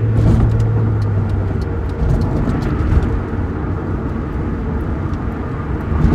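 Cabin noise of a C5 Corvette driving: its V8 drones with a steady low hum for the first second and a half, then engine and road rumble carries on.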